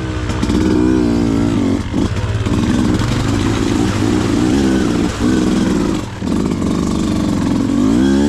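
Beta 200RR two-stroke dirt bike engine revving on and off the throttle, its pitch rising and falling. The throttle is briefly chopped a few times, and the engine climbs sharply in pitch near the end.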